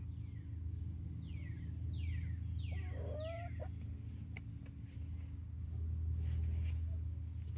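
Birds calling: several short whistles that fall in pitch in the first half, and a high two-note chirp repeating every second or two, over a steady low hum.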